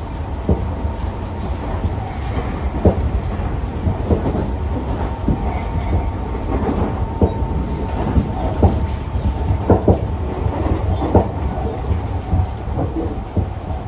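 Tobu 60000 series electric train heard from inside the passenger car while running at speed: a steady low rumble from the wheels on the track, broken by irregular clicks and knocks as the wheels pass over the rail joints.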